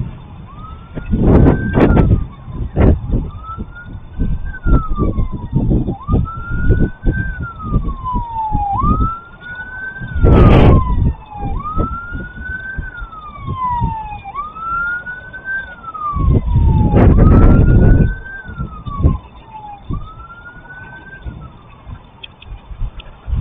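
An emergency-vehicle siren wailing: a tone that sweeps up and then slowly falls, repeating about every two seconds. Three loud low rushes of noise cover it near the start, about ten seconds in, and about seventeen seconds in.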